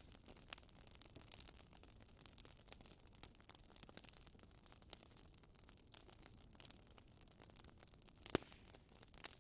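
Wood fire crackling quietly, with irregular small snaps and pops over a low hiss and one louder pop near the end.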